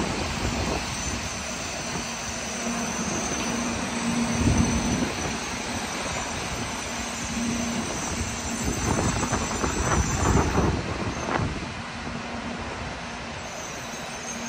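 Shinkansen train running along the line: a steady rushing rail noise that eases near the end.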